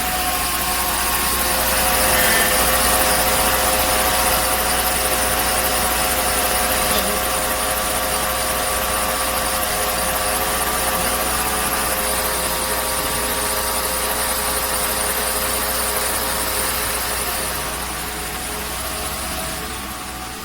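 Mercedes W124 E320 engine running with a steady whine on top while the steering wheel is turned, getting louder about two seconds in and easing off near the end.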